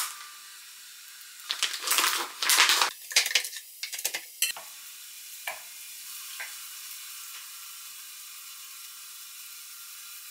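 Bacon sizzling as it goes into a hot auto-stirring electric pan: loud bursts of sizzle and stirring for about three seconds, starting a second and a half in, then a quieter steady sizzle.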